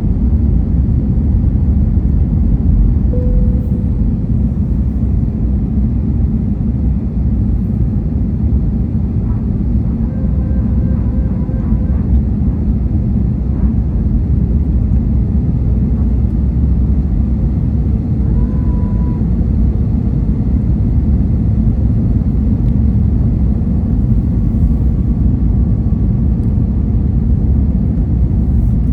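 Steady low rumble of an airliner heard from inside the cabin: engine and airflow noise.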